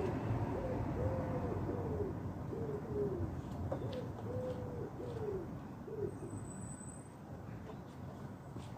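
A pigeon cooing, a run of soft rising-and-falling coos repeated through the first seven seconds or so, with a low steady hum underneath and a few faint clicks.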